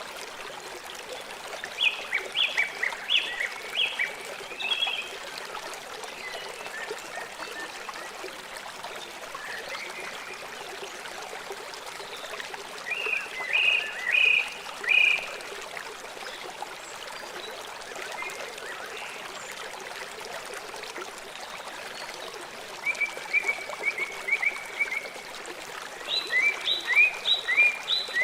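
River water flowing with a steady rushing sound, while a bird calls in quick runs of short high notes four times: about two seconds in, around thirteen seconds, and twice near the end.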